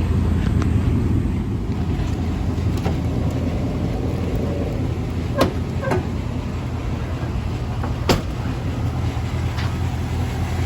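Two-door Chevy Tahoe's engine idling steadily, with a couple of sharp clicks about five and eight seconds in.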